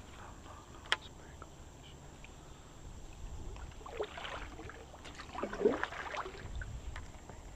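Sounds of a kayak on the water: a sharp click about a second in, then two splashy washes of water movement, the second, around five and a half seconds in, the louder.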